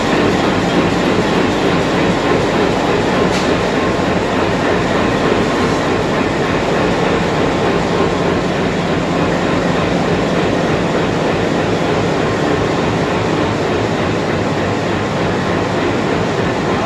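Train running on the track: a steady, loud rumble of wheels and carriages on the rails.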